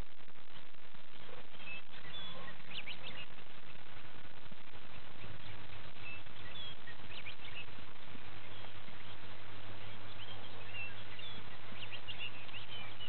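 Scattered short bird chirps over a steady outdoor noise, with a low steady hum coming in about five seconds in.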